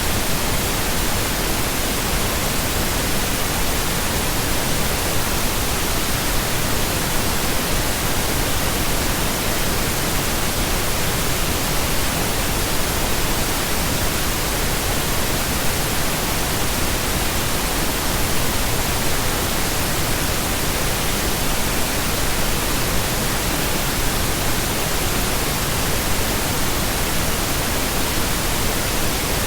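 Continuous pink noise: a steady, even hiss spread across the whole range from deep to high, unchanging throughout.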